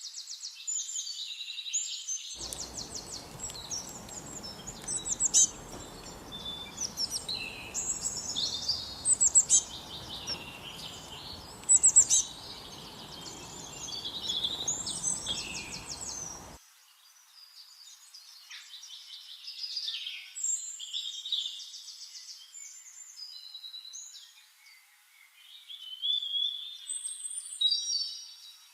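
Songbirds singing and chirping, several quick, high calls and trills overlapping. A steady background hiss sits under the first half and cuts off suddenly partway through.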